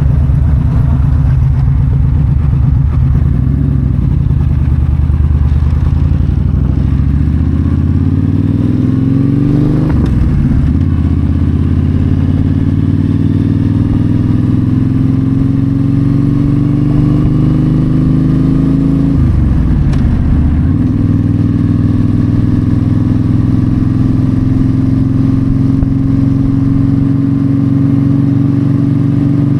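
Yamaha V-Star 1300 V-twin engine under way from the rider's seat, pulling with its pitch climbing and then dropping sharply twice, about a third and two thirds of the way in, as it shifts up, then running at a steady cruise. Wind and road noise run beneath it.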